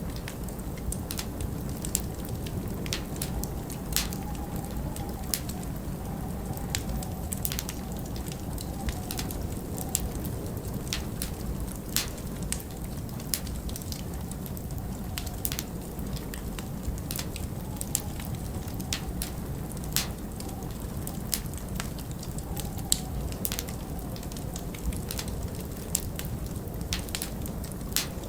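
Wood fire crackling, with irregular sharp pops, over a steady low rumble of blizzard wind that now and then rises into a faint wavering howl.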